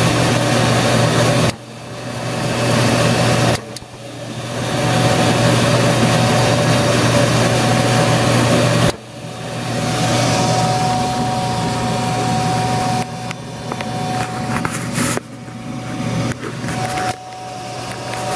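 A furnace running with a loud, steady rush and low hum. It cuts out abruptly several times and comes back up over a second or two each time, kicking on and off.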